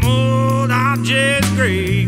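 Electric blues band recording: a lead guitar plays bending, wavering notes over bass and drum hits.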